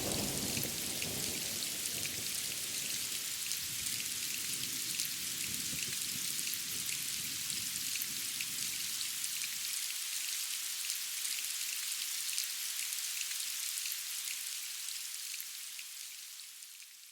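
Steady heavy rain: an even hiss dotted with small ticks of single drops. The low rumble of thunder dies away over the first half and stops suddenly about ten seconds in. The rain then fades out near the end.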